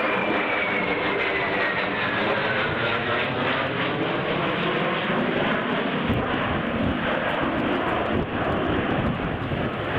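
An aircraft flying past. A steady rushing engine noise carries a whining tone that falls in pitch over the first few seconds as the aircraft passes.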